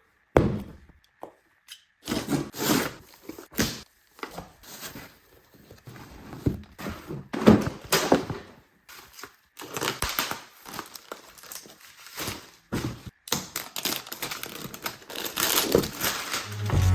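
Packaging being handled and opened by hand: irregular rustling, crinkling and tearing of paper or plastic wrap, with scattered clicks and light knocks of cardboard.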